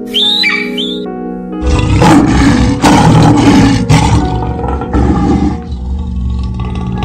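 Lion roaring in a run of loud, heavy calls about a second apart, over background music, after a short high screech at the start.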